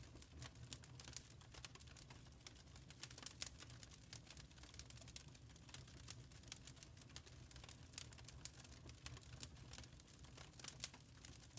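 Wood fire crackling softly: quick, irregular small pops over a low steady rumble.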